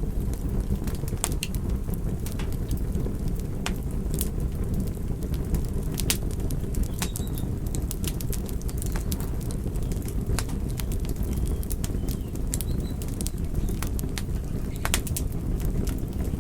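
Fire burning with a steady low rumble and irregular sharp crackles and pops.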